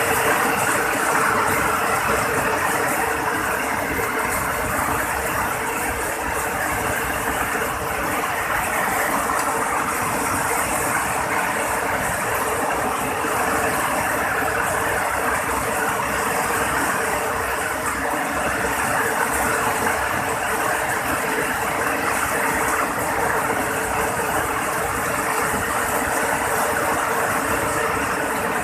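Heavy rain falling hard, a loud, steady, dense hiss with no let-up.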